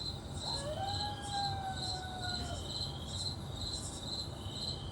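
Crickets chirping steadily in a woodland night soundscape, about two and a half high chirps a second. A longer, lower call with a steady pitch starts about half a second in and lasts about two seconds.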